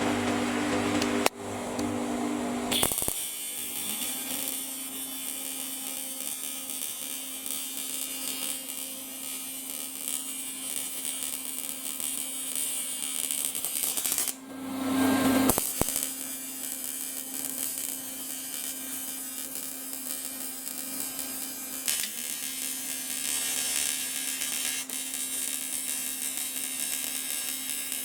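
TIG welding arc buzzing steadily as weld is built up on a cracked VW oil pan. The arc breaks off briefly about halfway through and then starts again.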